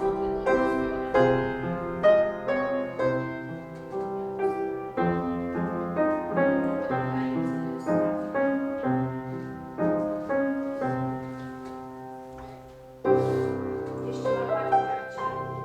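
Piano playing a slow, measured ballet-class accompaniment, with struck chords about once a second that fade toward the end of a phrase; a loud chord a little after thirteen seconds starts the next phrase.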